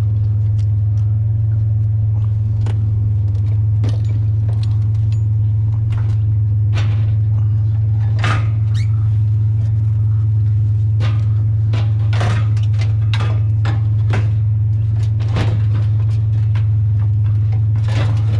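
A truck engine idling with a steady low drone, with scattered knocks and clanks of scrap metal being handled.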